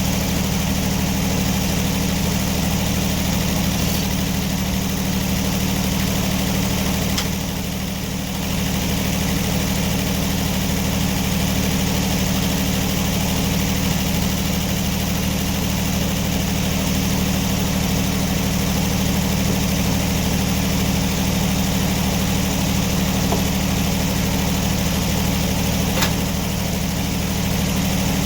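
An engine running steadily at an even speed, with a low, constant hum. The sound dips briefly about eight seconds in.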